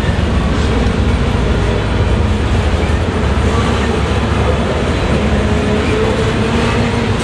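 Loud, steady rumble of a long CSX freight train rolling past, wheels running on the rails, with faint wavering tones above the rumble.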